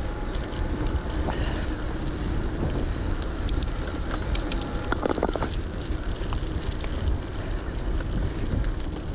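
Wind on the microphone and a steady tyre rumble from an electric bike rolling along a path, with a few short high chirps in the first couple of seconds.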